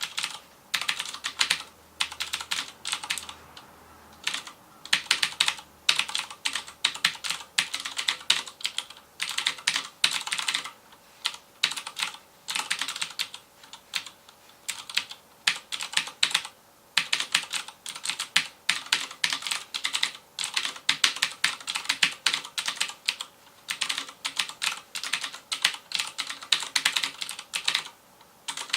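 Fast typing on a FILCO Majestouch Convertible 2 mechanical keyboard with Cherry MX Blue switches: rapid clicky keystrokes in bursts of a second or so with short pauses between them.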